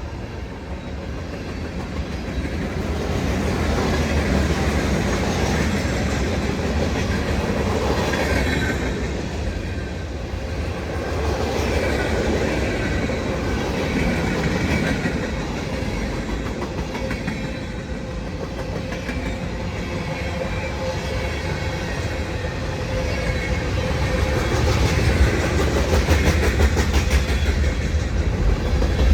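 Union Pacific freight train rolling past, its steel wheels knocking over rail joints in a running clatter that grows louder near the end.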